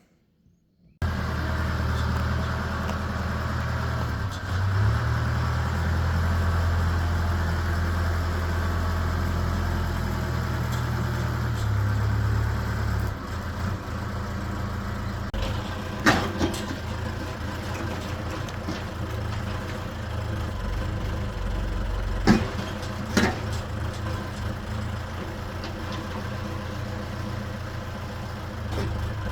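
Excavator's diesel engine running steadily after a sudden start about a second in; its note shifts about halfway through, and a few sharp knocks sound in the second half.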